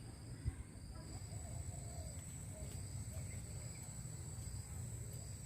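Insects calling in woodland: one steady, high-pitched whine and a second insect call pulsing on and off about once a second, over a constant low rumble.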